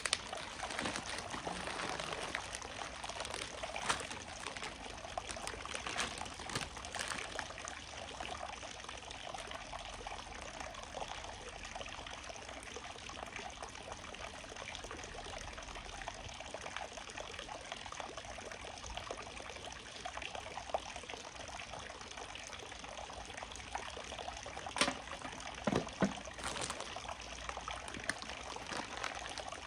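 Steady trickle of running water, with a few brief sharp sounds near the end.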